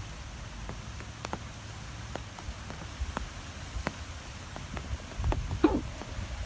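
Rain falling, with separate drops striking sharply and irregularly over a low rumble. About five and a half seconds in comes a brief, louder sound with a wavering pitch.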